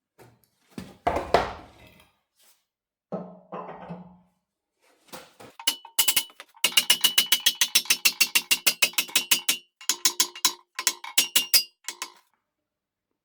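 A couple of dull thumps, then rapid runs of sharp metallic knocks, about eight a second, each ringing at the same pitch, stopping and starting a few times near the end: metal struck or driven against steel.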